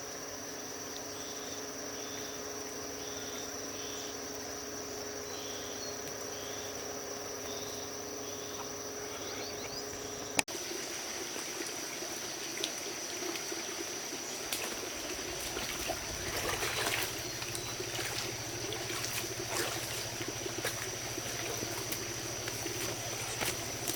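Insects shrilling steadily with a high, continuous tone and a faint repeating chirp. After a sudden break about ten seconds in, trickling, splashing water with many small knocks and clicks joins the insects.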